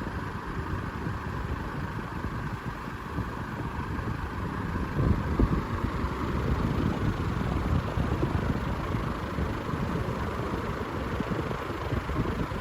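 Venti-Delta ceiling fan running, its airflow buffeting the microphone in an uneven, gusty rumble over a fainter steady hum.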